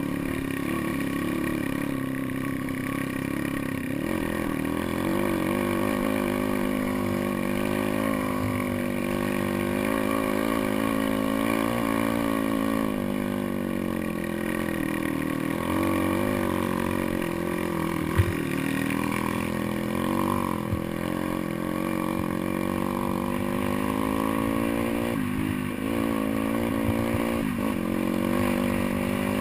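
Small pit bike engine running under load on an enduro trail, its pitch rising and falling as the throttle is opened and closed, with a sharp knock about two-thirds of the way through.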